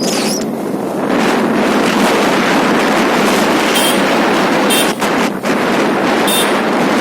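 Wind rushing over the microphone and road noise on a moving motorcycle, steady and loud, with three short high-pitched blips about midway and near the end.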